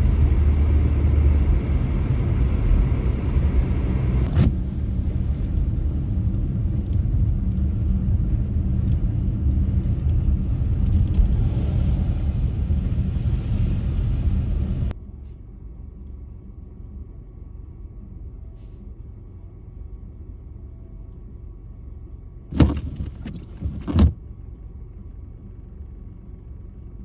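Car driving, with a steady low rumble of engine and road noise that cuts off suddenly about halfway through. After that there is a quieter steady hum, with two sharp knocks near the end.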